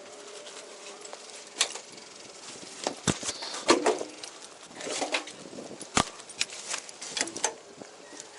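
Handling noise picked up by a body-worn camera: scattered clicks and knocks with short bursts of rustling, the sharpest knocks about three and six seconds in.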